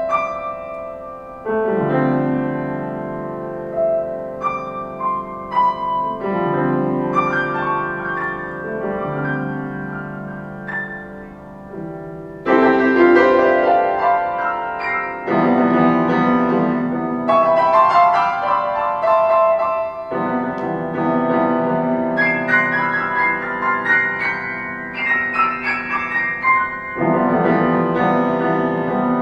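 Solo piano playing slow sustained chords with a melody above, the chords changing every couple of seconds, turning louder and fuller about twelve seconds in.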